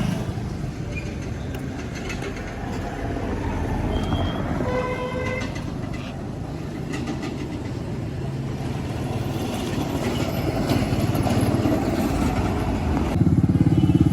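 Tractor engine running steadily, getting louder about thirteen seconds in, with a short higher-pitched note about five seconds in.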